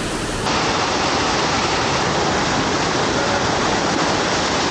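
Waterfall, water rushing and splashing in a steady, loud roar of noise that gets a little louder about half a second in.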